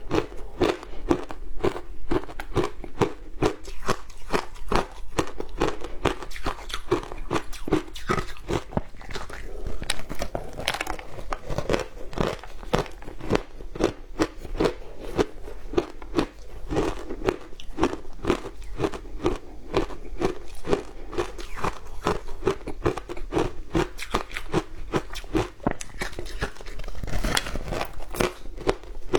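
Frozen matcha ice being bitten and chewed: a steady run of crunches, several a second, without a break.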